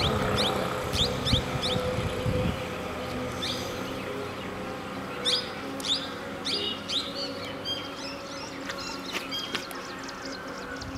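Birds chirping in quick runs of short, sharp, down-slurred notes, over a faint low steady hum.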